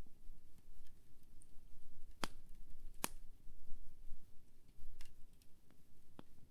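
Wood campfire burning with a low steady rumble and sharp crackling pops, two loud snaps a little under a second apart about two seconds in and a couple of fainter ones near the end.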